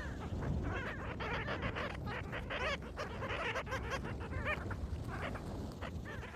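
A group of birds calling together: many short, overlapping calls that bend up and down in pitch, packed closely one after another, over a steady low background rumble.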